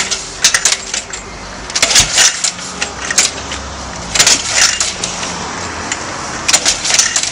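Four bursts of sharp metallic clattering about two seconds apart: a 1940 Indian Chief motorcycle being kicked over, its engine not catching, reluctant to start.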